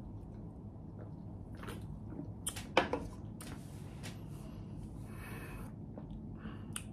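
Close-miked chewing and wet mouth sounds of a person eating chicken liver, with scattered soft clicks and smacks, the loudest a little under three seconds in.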